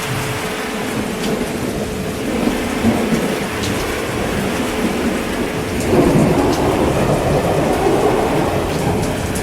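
Steady heavy rain with a rolling rumble of thunder that swells from about two seconds in, is loudest around six seconds in, and fades near the end.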